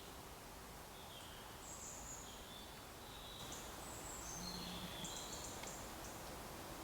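Faint, high-pitched chirps of woodland wildlife, scattered irregularly over a steady background hiss, with a brief low hum about four and a half seconds in.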